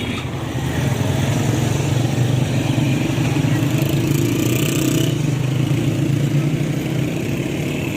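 A motor vehicle's engine running steadily, growing louder about a second in and then holding.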